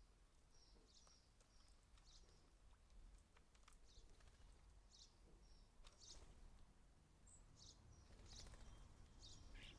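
Faint birdsong: scattered short, high chirps and whistles every second or so, over a steady low rumble.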